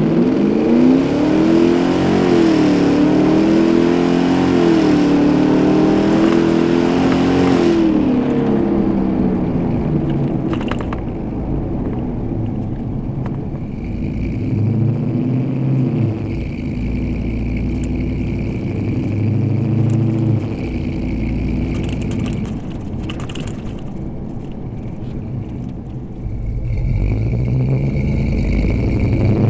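Ford 7.3L Godzilla gasoline V8 with long-tube headers and a custom full exhaust, accelerating hard under wide-open throttle with the engine pitch climbing and dropping through the gears over the first several seconds. It then runs lower and quieter with a few swells in pitch, and pulls hard again near the end.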